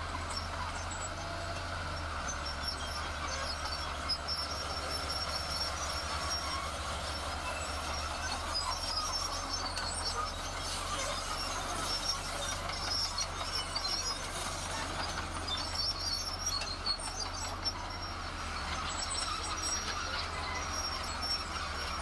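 Heavy diesel construction machinery running steadily, with intermittent high metallic squeaking over the low engine hum.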